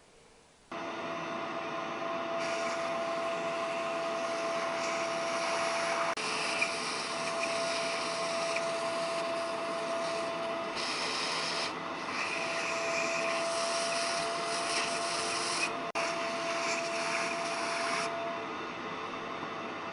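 Small electric motor running steadily, with a rough abrasive scraping hiss that swells and drops several times as the tool works against a surface. It starts abruptly and fades near the end.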